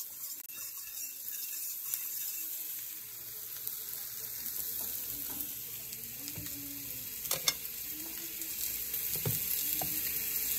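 Onions, garlic and ginger sizzling steadily in hot oil in a large pan, with a couple of sharp knocks about seven seconds in and another near the end.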